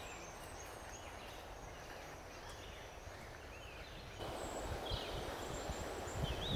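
Outdoor park ambience laid over the film: a steady background hiss with scattered short bird chirps. About four seconds in it switches to a fuller, louder bed with a few low thumps.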